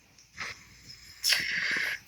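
A sleepy person's breathy sigh: a soft breath about half a second in, then a louder hissing exhale of under a second that starts and stops abruptly near the end.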